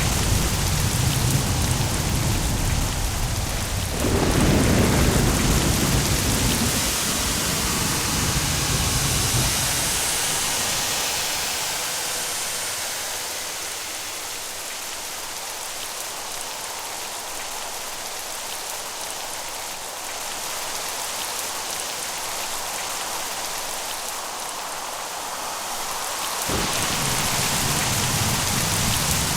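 Steady heavy rain with rolling thunder. The thunder rumbles low through the first ten seconds, swelling about four seconds in before fading, leaving only the hiss of rain. Near the end the rumble comes back suddenly.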